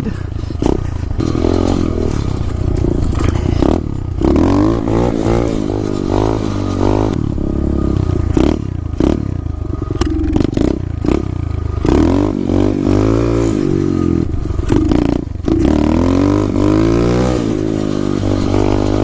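SSR 125 pit bike's single-cylinder four-stroke engine revving up and falling back again and again as it is ridden, its pitch rising and dropping with each opening of the throttle. The engine is still cold and its throttle response is slow, which the rider finds delayed.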